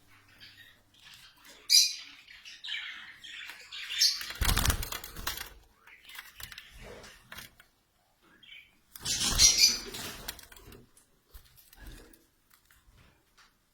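Budgerigars fluttering their wings in two short bouts, about four and nine seconds in, amid scattered high chirps.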